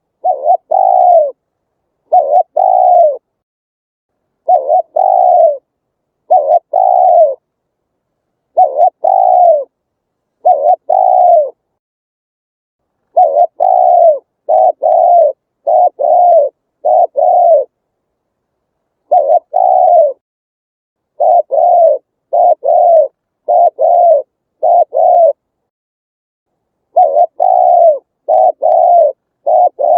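Spotted dove cooing, a recorded call of the kind played through a speaker to lure wild doves: short, low, arched coo notes in groups of two to five, each group followed by a silent pause of one to two seconds.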